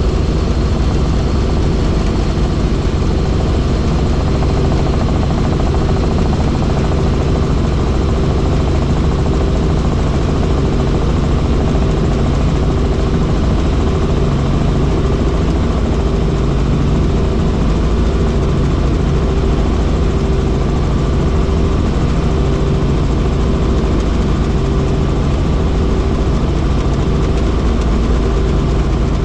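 Helicopter in flight: steady, loud rotor and engine drone with a slow, regular throb in its tone.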